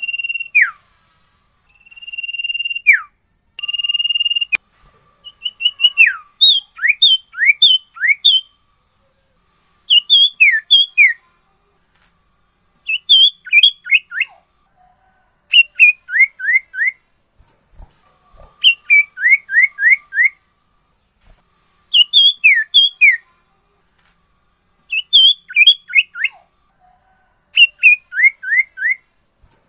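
A sirtu songbird singing steadily. It gives three long steady whistles, each ending in a dropping note, then repeats phrases of four or five quick downward-sliding 'nyiul nyiul' notes every few seconds.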